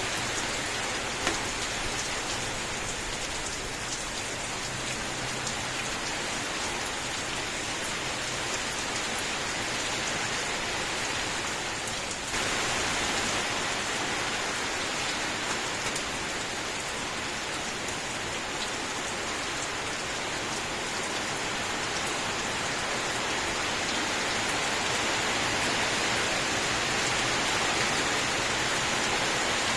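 Steady rain falling, an even hiss of many drops, with a slight sudden rise in level about twelve seconds in.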